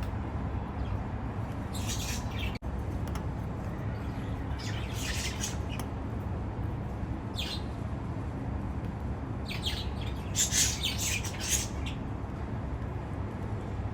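Baby budgerigar chicks giving short bouts of raspy squawking calls, the loudest bout near the end, over a steady low hum.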